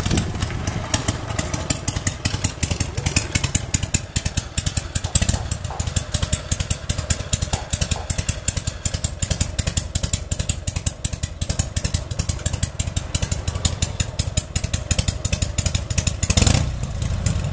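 Harley-Davidson Panhead V-twin motorcycle engine running at idle with a steady, rapid firing beat, and one short rev near the end.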